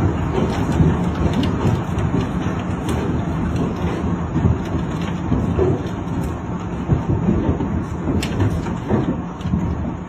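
Heavy hail falling: a loud, steady din of countless small impacts blending into one continuous rumble.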